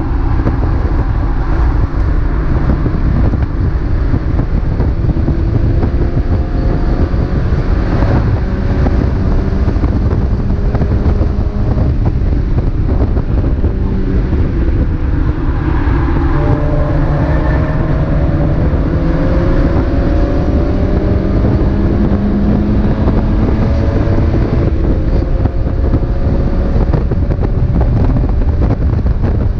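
Mazda MX-5 race car engine heard onboard at racing speed, its note climbing slowly and dropping back several times as it goes through the gears, over heavy road and wind rumble.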